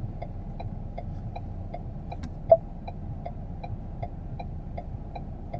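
2017 Ford Edge turn-signal indicator ticking evenly, about three ticks a second, inside the cabin over a low steady hum. A single sharper click sounds about two and a half seconds in.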